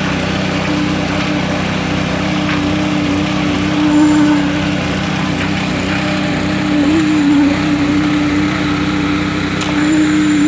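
A small engine running steadily at a constant pitch, with a few faint clicks over it.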